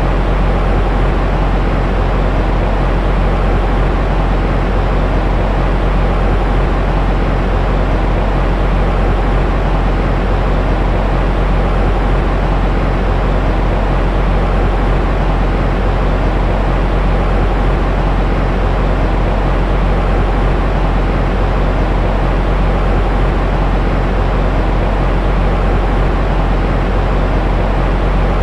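Continuous, unchanging white-noise track for lulling a baby to sleep, a deep steady rushing hiss weighted toward the low end.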